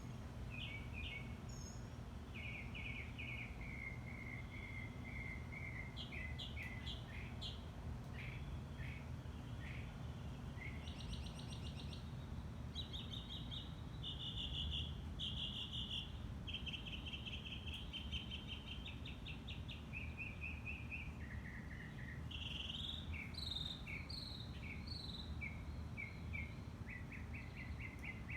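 Backyard songbird singing a continuous run of varied chirps and trills, changing phrase every second or two, over a steady low background hum.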